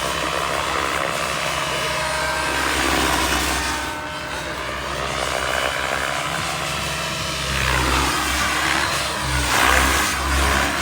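Wren 45 kerosene turbine and main rotor of an RC helicopter running: a continuous turbine whine whose pitch rises and falls, over the beat of the rotor blades. The rotor beat grows louder from about three quarters of the way in.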